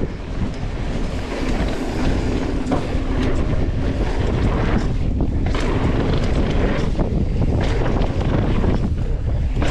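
Wind buffeting the microphone of a camera on a moving mountain bike: a steady low rumble with a few sharp knocks.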